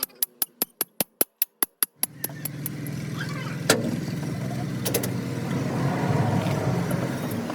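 A run of evenly spaced sharp clicks, about five a second, then an engine starts running steadily with a low rumble, broken by a couple of sharp knocks.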